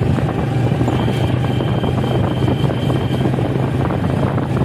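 Motorcycle engine running steadily while riding, under wind rushing over the microphone.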